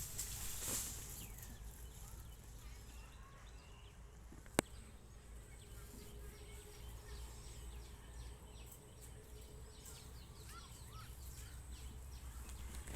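Cattle grazing: faint, scattered ripping of grass being torn, with one sharp click about four and a half seconds in.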